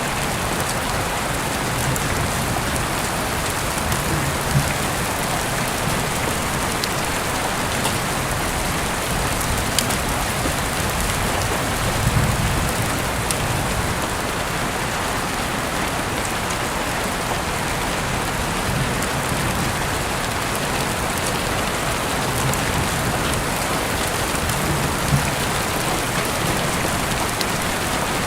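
Steady rain falling, an even dense hiss, with a few sharp ticks here and there.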